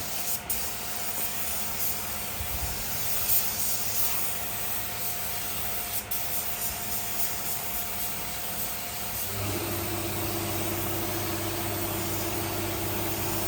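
Steady hiss of a spray gun spraying finish onto the wood. About nine seconds in, a steady machine hum starts and keeps going.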